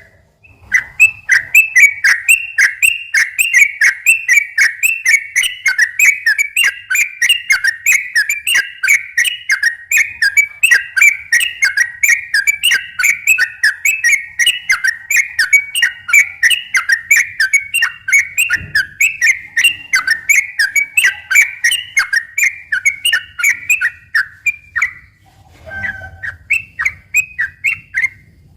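Yellow-vented bulbul (trucukan) singing a long, fast 'ropel' run of bright, warbling whistled notes at about three a second, broken by a short pause near the end before it resumes.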